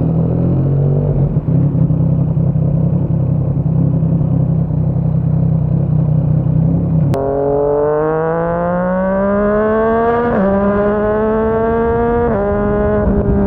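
Yamaha MT-09's inline-three engine with a Yoshimura R55 slip-on exhaust, running steadily for about seven seconds. It then pulls away, the pitch rising as it accelerates, broken by two quick upshifts about two seconds apart, before settling to a steadier cruise.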